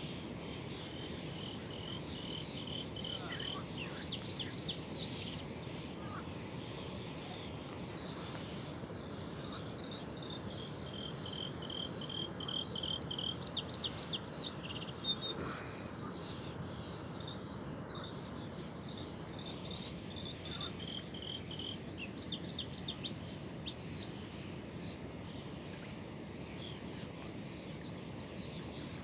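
Natural outdoor ambience: birds and insects chirping and trilling in repeated phrases over a steady low hiss. The chirping is busiest about twelve to fifteen seconds in.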